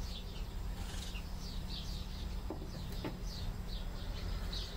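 Small birds chirping: a string of short, high, falling notes repeated every half second or so, over a steady low rumble.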